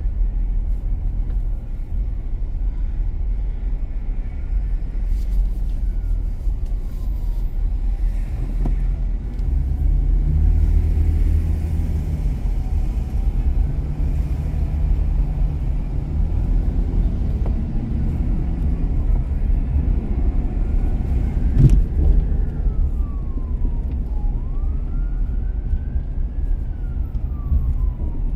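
Steady low rumble of city traffic and tyres on the road, with an engine note that rises and falls in steps midway. Near the end a siren starts, wailing up and down in pitch.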